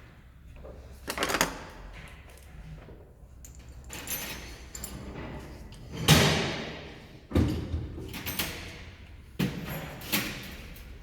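Workshop handling noises from work on a diesel unit pump: a series of separate short, noisy scrapes or hisses, about seven in all. The loudest comes about six seconds in and fades over a second.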